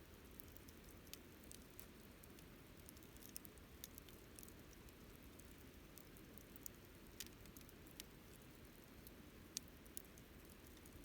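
Wood campfire crackling: irregular sharp pops and ticks, the loudest about ten seconds in, over a faint steady low rumble.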